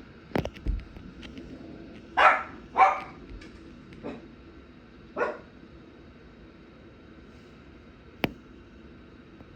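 A dog barking four times, the first two loudest. A sharp knock comes near the start and another near the end.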